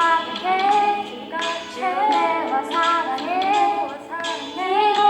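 Children singing a Korean Christian praise song with instrumental accompaniment.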